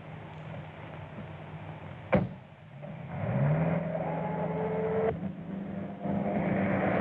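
A sharp knock, like a car door shutting, about two seconds in, then a car engine speeding up and running steadily.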